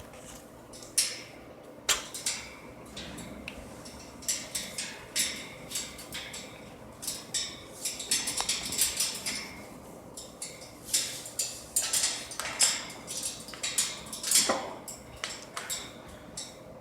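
Irregular clicking, tapping and scraping of pet parrots' beaks and claws on their cage, in quick clusters with a few sharper knocks.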